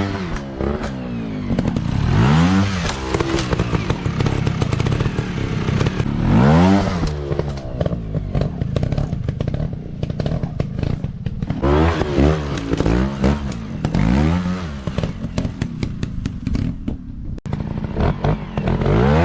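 Dirt bike engines revving up and down over and over, in quick throttle bursts, with some clattering.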